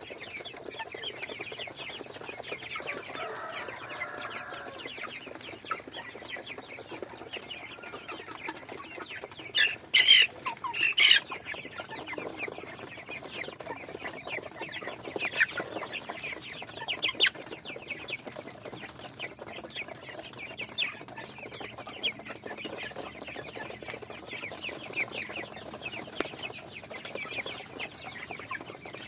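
A flock of chickens clucking and calling, with a steady chatter of short calls throughout. There is a drawn-out call a few seconds in, and two loud squawks about a third of the way through.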